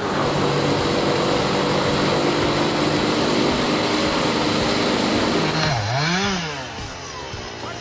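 A chainsaw engine running steadily at high revs. About six seconds in the pitch dips and climbs back once, then the saw quietens.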